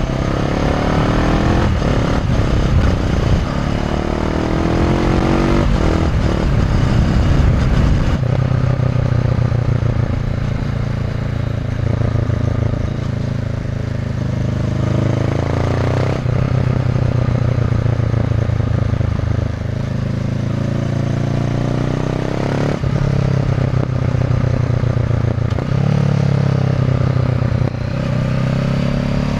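Honda CB500F parallel-twin with an SC Project Conic titanium slip-on exhaust, under way: revs rise through the gears in the first several seconds, settle to a steady cruise, then climb again in several short pulls later on.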